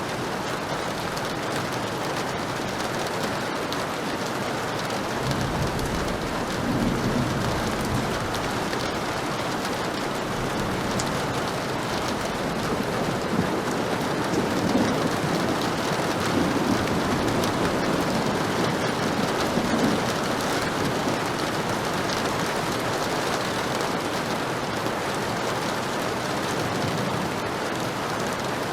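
Heavy rain falling steadily, with low rolling thunder rumbling twice: once several seconds in and again through the middle.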